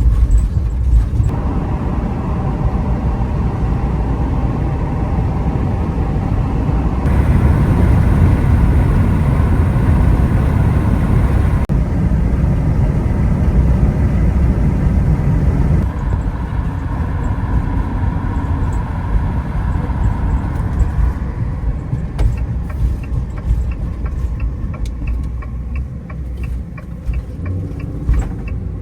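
A van driving on the road, heard from inside the cab: a steady engine and tyre rumble, louder around the middle, with faint regular ticking in the last few seconds.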